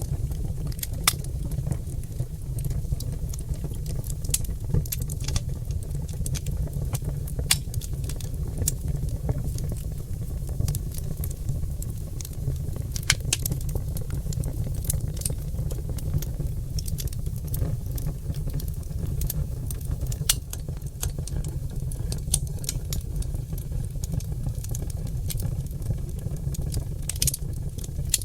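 Oak logs burning in a wood fire: many sharp, irregular crackles and pops over a steady low rumble.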